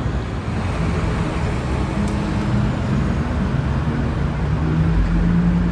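Street traffic: a steady rumble of motor vehicles, with an engine hum getting a little louder near the end.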